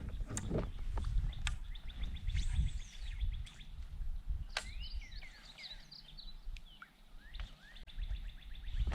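Birds chirping and calling over a steady low rumble. A fast run of high ticks comes in about a second and a half in and lasts two seconds, and a few sharp clicks stand out.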